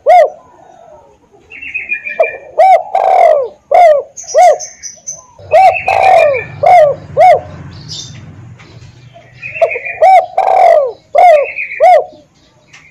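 Spotted dove (tekukur) cooing: three phrases of four or five loud, arched coo notes, with quieter higher chirping between the phrases.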